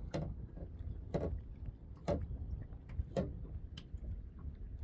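Kayak on the water: a few sharp knocks and slaps against the hull, about one a second, over a steady low rumble.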